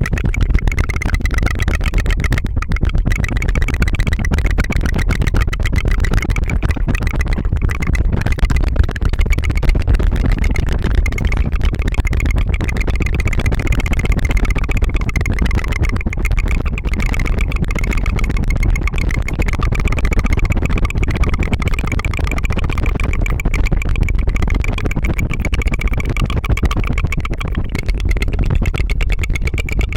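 Rapid, unbroken tongue fluttering, a rolled trill with a faint pitch held through it, made to imitate an engine's putt-putt.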